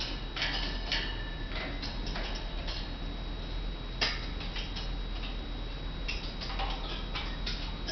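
Irregular light clicks and taps from Indian ringneck parakeets moving about their cage and toys, with a few faint short chirps and one sharper click about four seconds in.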